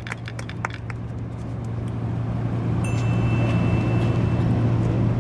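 A steady low engine hum that grows louder over the first few seconds, with a thin high ringing tone for about two seconds past the middle.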